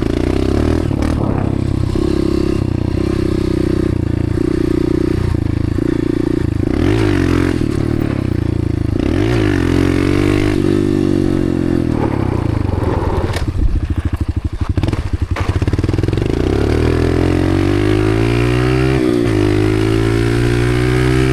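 Dirt bike engine revving hard under throttle: short, evenly repeated surges for the first few seconds, then long climbs and drops in pitch as the rider accelerates, shifts and backs off, the pitch rising again near the end.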